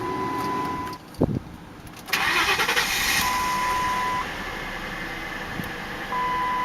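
A 2000 Lincoln Town Car limousine's 4.6-litre V8 starting: a short thump a little after one second, then about two seconds in the engine catches and keeps running. A single-tone warning chime sounds about every three seconds throughout.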